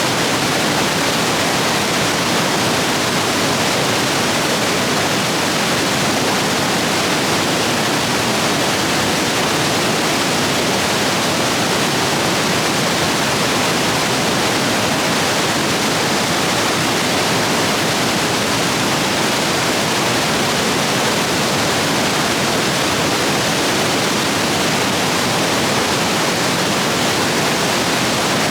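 Rapids running high after heavy rain: a steady, loud rush of water.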